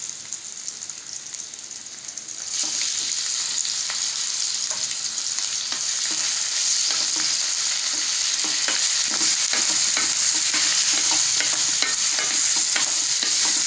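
Boneless chicken pieces frying in oil with onion and garlic in a stainless steel pan. The sizzle jumps suddenly louder about two and a half seconds in as the chicken goes into the hot oil. From about six seconds on, a wooden spatula stirs and scrapes the pan with rapid light clicks over the sizzle.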